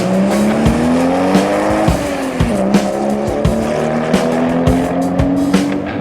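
Cartoon vehicle engine sound effect revving, its pitch climbing, dipping about two seconds in, then climbing again, over background music with a steady beat.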